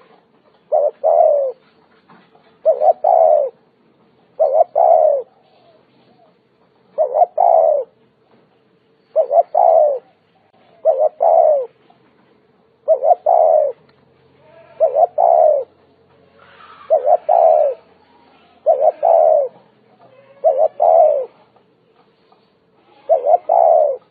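Spotted dove cooing over and over, a phrase about every two seconds. Each phrase is a quick pair of short notes followed by a longer coo that falls in pitch.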